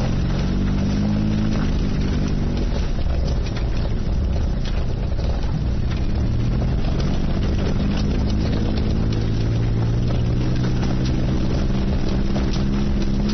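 Suzuki Jimny JA22's small three-cylinder turbo engine running under load while driving, over a steady low rumble. Its pitch rises at the start, eases off, then climbs again through the middle and holds.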